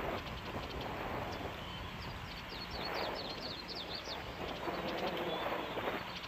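Outdoor background noise with a steady low rumble, and a small bird calling a quick series of short high chirps about halfway through.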